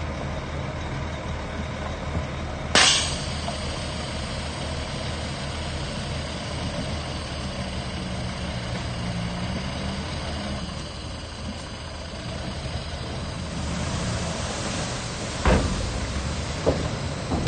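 Heavy diesel earthmoving machinery running steadily, with a sudden sharp hiss about three seconds in and a few sharp knocks near the end.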